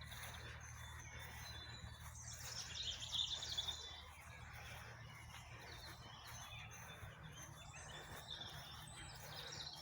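Birds chirping and singing, loudest in a short burst a little over two seconds in and again near the end, over a faint steady low hum.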